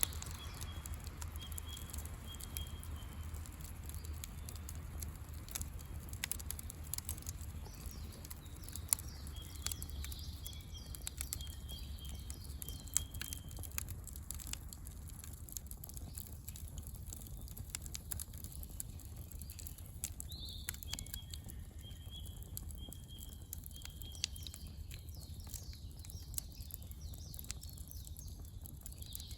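Wood campfire crackling, with irregular sharp pops over a low steady rumble. A bird calls in runs of short, evenly repeated high notes three times.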